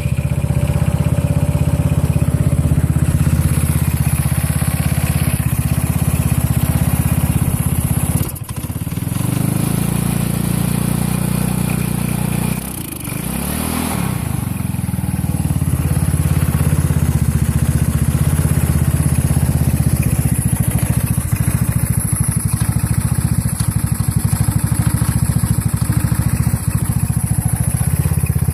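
A go-kart's 150cc engine running just after a cold start on a new carburetor, steady apart from two brief dips about 8 and 13 seconds in, the second followed by a quick rise and fall in pitch. It spits and sputters now and then, which the owner puts down to the tank being low on gas.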